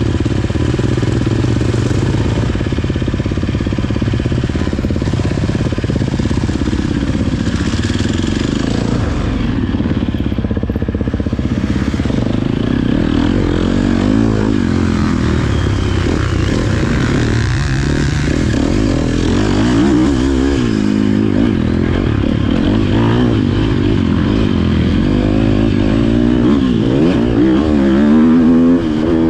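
Motocross bike engine revving up and down as the bike is ridden, its pitch rising and falling repeatedly, loudest near the end.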